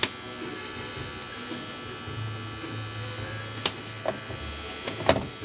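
Moser 1250 electric hair clipper motor running with a steady buzzing hum, with several sharp clicks in the second half.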